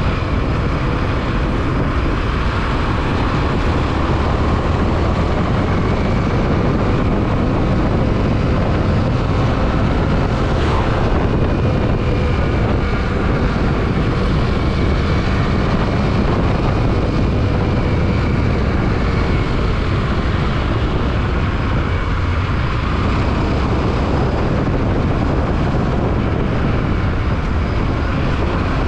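Yamaha WR155 motorcycle being ridden: its single-cylinder engine running under a steady rush of wind noise on the microphone.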